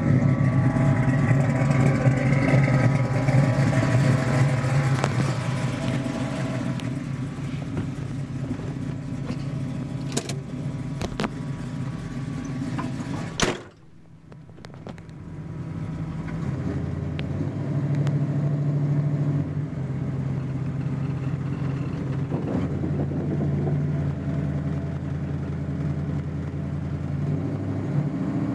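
1974 Chevrolet El Camino SS 454's big-block V8 running loud and steady near the tailgate. About halfway through, a door shuts with a sharp bang, and the engine is then heard muffled from inside the cab. The car pulls away and the engine note rises and falls in steps with the throttle.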